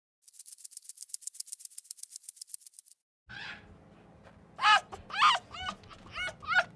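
A fast, dry, high-pitched rattle of about ten clicks a second stops about three seconds in. After a short break, a small animal gives short, high-pitched yelps that fall in pitch, about two a second.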